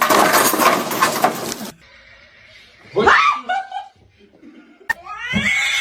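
About a second and a half of harsh, hiss-like noise that cuts off suddenly, then a domestic cat meowing twice, the first a rising-and-falling call.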